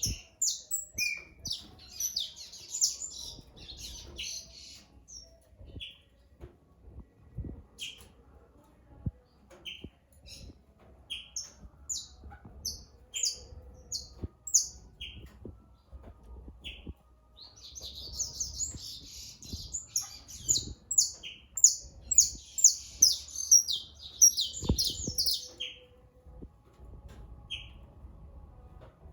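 Several songbirds singing together: rapid high twittering chatter in two long spells, with short high notes repeated about once a second between them.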